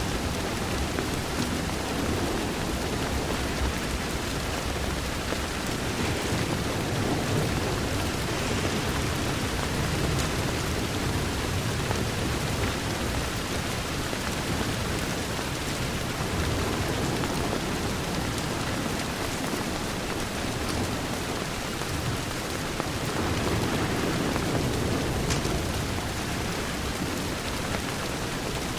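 Steady rain pattering on a window pane, with a low rumble swelling up twice, about a quarter of the way in and again near the end.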